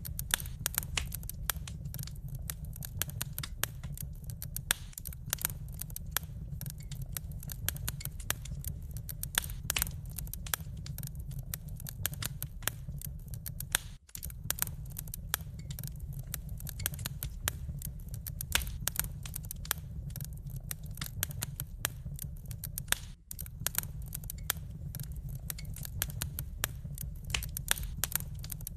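Wood fire crackling, with many sharp irregular pops and snaps over a steady low rumble of burning. The sound drops out briefly twice, about 14 and 23 seconds in.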